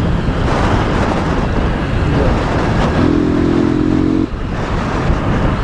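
Motorcycle engine running under way with heavy wind rush on a helmet-mounted microphone. About three seconds in, the engine note holds a steady pitch for over a second, then cuts off with a brief dip in loudness.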